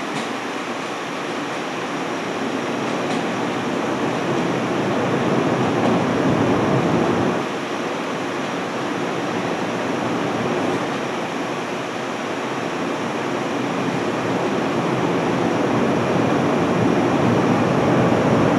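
JR West 103 series electric train running, with a steady rumble of wheels and motors. The noise grows louder over the first seven seconds, drops suddenly about seven and a half seconds in, then builds again.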